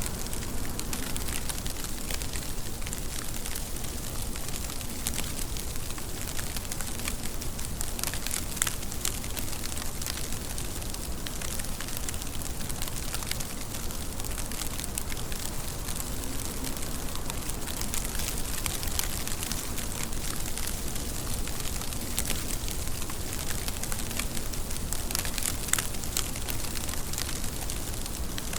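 Steady rain falling, a constant hiss dotted with the ticks of many individual drops.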